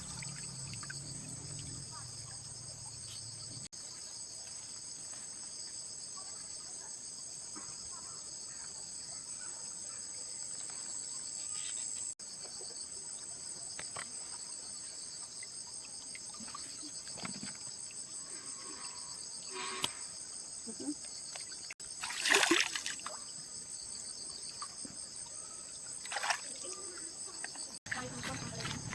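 Steady, high-pitched insect chorus, with a few short knocks and clinks from work on the machine, the loudest about two-thirds of the way through.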